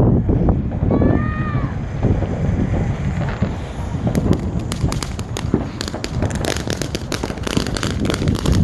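Ground firework fountain spraying. It starts as a rushing hiss and about four seconds in breaks into dense, rapid crackling.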